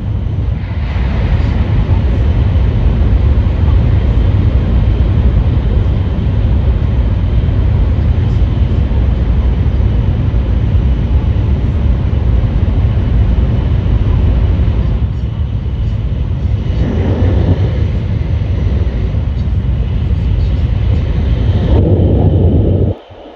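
Nishi-Kyushu Shinkansen N700S train heard from inside the passenger cabin while running at speed: a loud, steady low rumble with a rushing noise over it. The sound drops away abruptly near the end.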